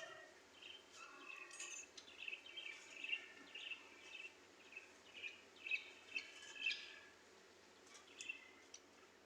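Parrots chirping softly: a run of short chirps and squeaks, dense in the middle and thinning out near the end.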